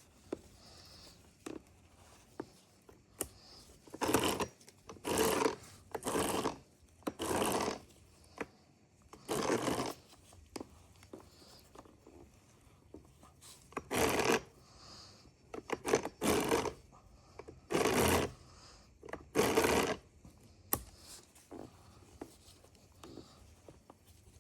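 An irregular series of about a dozen short rasping or rubbing strokes, each under a second, with light clicks and knocks scattered between them.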